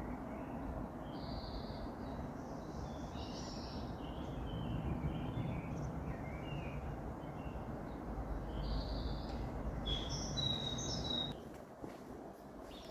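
Birds chirping and whistling in short calls, over a steady low background rumble that drops away about eleven seconds in.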